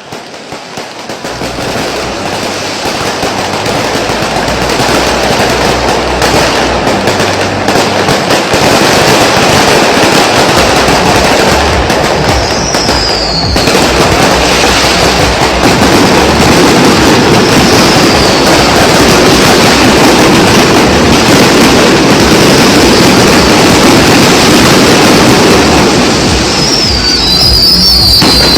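New Year's fireworks, a dense, continuous barrage of bangs and crackling that swells over the first few seconds and then stays loud, with a few whistles from rockets going up.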